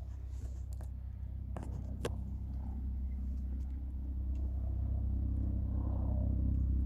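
Helicopter flying by, its low engine-and-rotor rumble growing steadily louder. Two sharp clicks about a second and a half and two seconds in.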